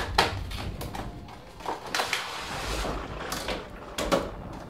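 Action-figure box being opened and handled by hand: a few sharp clicks and knocks of the packaging, with a sliding rustle about two seconds in.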